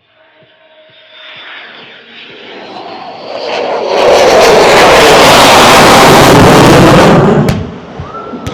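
Aircraft passing low overhead at an air show. The engine noise builds over a few seconds to a very loud peak, then falls away sharply near the end.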